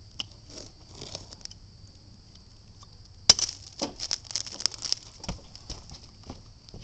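Irregular metallic clicks and clinks of hand tools being handled, with one sharp knock about halfway through followed by a quick flurry of clicks.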